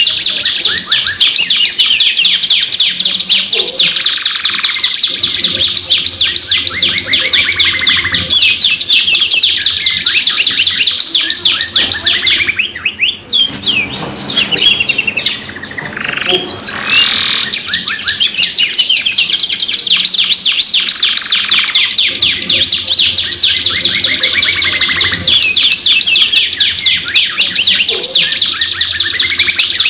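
Domestic canaries singing non-stop in long, rapid rolling trills. Partway through, the trills give way for a few seconds to softer, slower gliding whistles before the fast trilling resumes.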